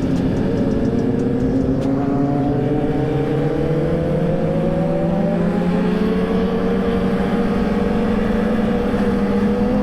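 Suzuki GSX-R1000 inline-four sportbike engine pulling steadily at highway speed, its pitch rising slowly and evenly as it accelerates in one gear. Wind rush on the microphone lies under it.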